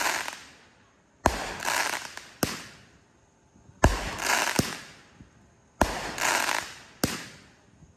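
Consumer fireworks going off in a steady sequence: about six sharp bangs, one every second or so, each followed by a short burst of crackling hiss that fades.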